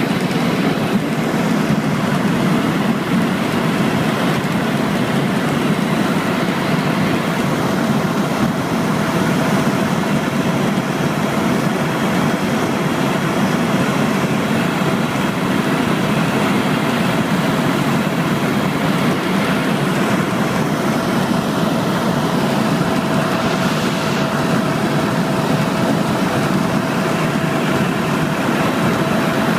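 Helicopter engine and rotor noise, a steady loud drone with a thin steady whine above it.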